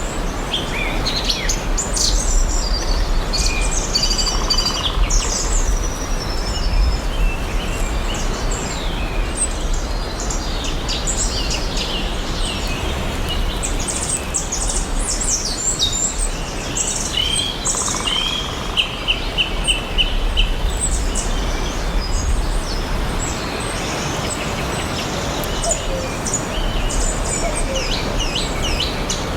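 Several songbirds chirping and singing over one another, with short calls and trills. About two-thirds of the way in, one bird gives a quick run of evenly spaced notes. A steady low rumble of background noise runs underneath.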